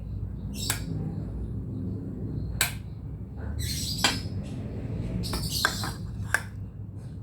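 Utensils and dishes clinking in a handful of sharp, separate knocks as food is served onto plates, over a low steady hum.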